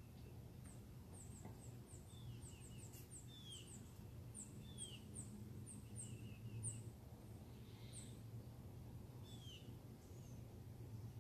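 Faint birdsong: many short, high chirps sliding downward in pitch, in quick runs, over a steady low hum.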